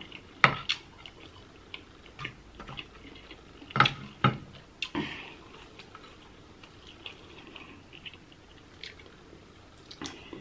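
A person eating king crab meat close to the microphone: wet chewing and mouth smacks with scattered sharp clicks, the loudest a little before four seconds in.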